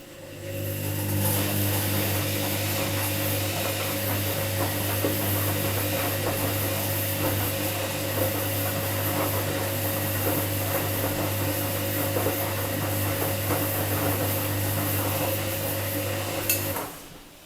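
Washing machine running: a steady low hum with a hiss of fine crackling ticks over it. It comes on with a click just after the start and cuts off suddenly about a second before the end, typical of the machine's pump or motor switching on and off.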